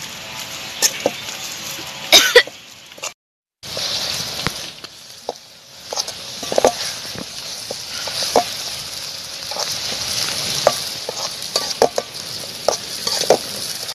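Chopped onion and tomato sizzling in a metal pan as a metal ladle stirs it, with steady frying hiss and short clicks and scrapes of the ladle against the pan. The sound drops out briefly about three seconds in.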